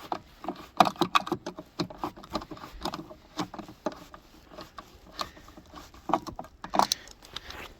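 Irregular clicks and knocks of hard plastic and metal as a 1990 Dodge Grand Caravan's taillight assembly is worked loose by hand, its bottom still holding.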